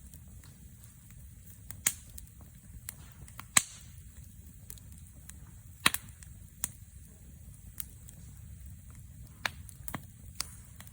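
Wood campfire burning, crackling with sharp irregular pops, the loudest about three and a half seconds in, over a low steady rumble.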